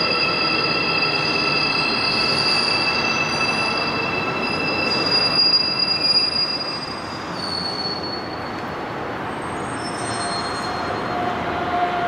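Airport Railroad (AREX) electric train running through the station behind the platform screen doors: rolling rumble with several steady high-pitched squealing tones from the wheels. The tones fade and the noise drops about seven seconds in as the train moves off.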